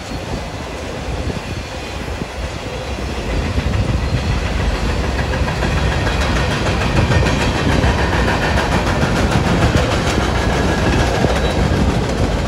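Autorack freight cars of a passing train rolling by close at hand: steel wheels rumbling on the rails with a regular clicking over the rail joints. The sound gets louder about three seconds in.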